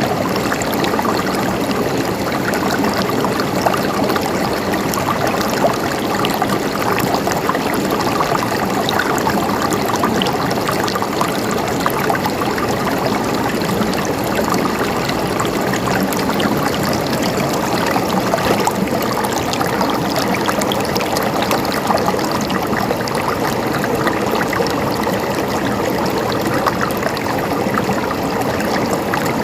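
Running water of a small stream, a steady gurgling flow with small splashes and trickles.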